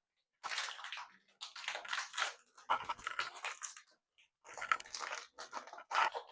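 Foil wrapper of a Pokémon Scarlet & Violet booster pack being torn open and crinkled, in several irregular crackling bursts.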